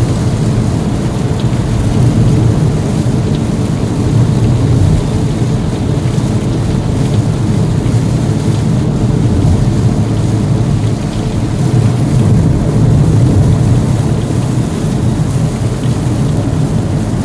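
Heavy rain falling on a moving car, heard inside the cabin as a steady, loud, low rumble of rain and road noise.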